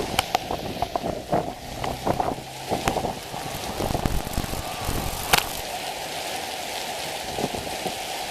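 Heavy downpour: a steady rain hiss with many sharp drop impacts close by, one louder a little past the middle.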